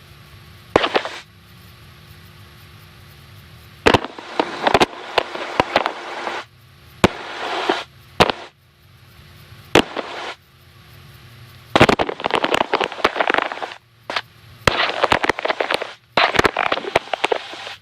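Crackling static over an aircraft headset, breaking in as about a dozen abrupt bursts that switch on and cut off sharply over a low, steady hum.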